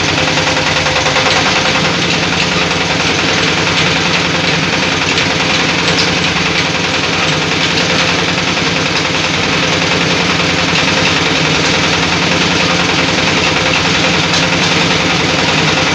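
Meat-and-meatball grinding machine running steadily, with a rapid, even pulsing beat.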